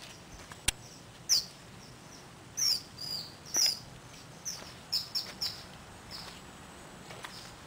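Small birds chirping: a scattered series of short, high chirps, each dropping in pitch, some coming in quick pairs. A single sharp click sounds just under a second in.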